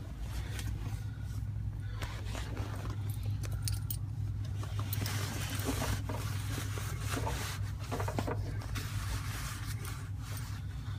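Mack truck diesel engine running at a steady speed after a cold start: a constant low drone with light metallic rattling over it.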